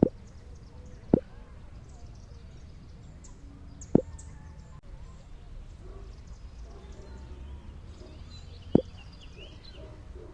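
Four sharp single knocks, unevenly spaced a few seconds apart, over a steady low rumble.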